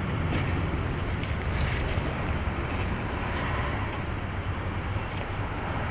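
Motorcycle running on the road with wind noise on the microphone: a steady low rumble under a constant rush of wind.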